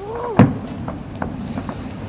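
A firework shell bursting with a loud bang about half a second in, followed by scattered crackling pops.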